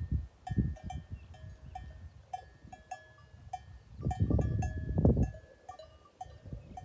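Bells on a flock of sheep clinking irregularly, several short rings a second, as the animals move and graze. Low rumbles of wind or handling on the microphone come briefly at the start and again for about a second past the four-second mark.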